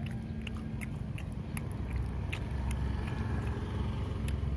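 A person chewing chicken meatballs, with irregular clicks from the mouth, over a low steady rumble.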